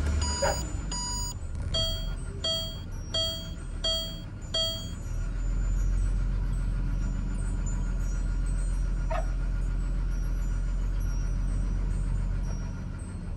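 Ford Falcon XR6 dashboard warning chime with the key turned off, beeping about seven times at an even pace of roughly one every 0.7 s and stopping about five seconds in. A steady low hum carries on under it and after it, with one sharp click near the middle.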